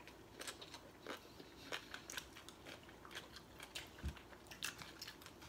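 A person chewing and crunching food, with irregular light clicks of a spoon against plates and a single dull knock about four seconds in.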